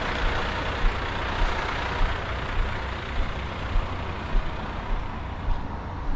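Roll-off truck engine running steadily with a low rumble, and a regular low thump about every 0.6 s.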